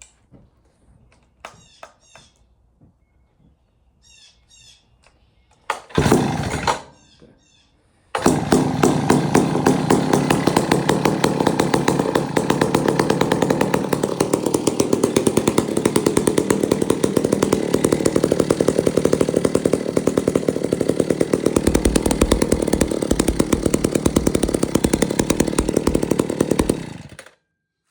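Vintage McCulloch 1-46 80 cc two-stroke chainsaw started from cold: after a few light clicks, a short loud burst about six seconds in, then the engine catches about two seconds later and runs steadily for nearly twenty seconds before it is shut off abruptly near the end.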